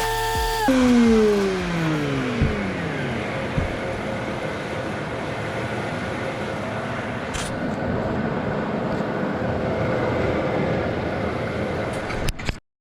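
A power tool's motor shuts off about a second in and winds down with a falling whine over two to three seconds. A steady rushing noise carries on underneath and cuts off suddenly near the end.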